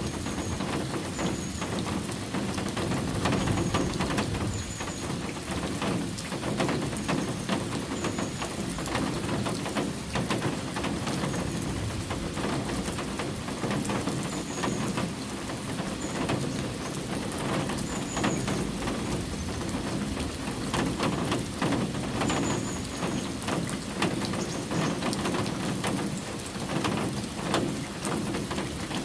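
Steady rain falling, with many small drop ticks on surfaces. Faint short high chirps come every second or two.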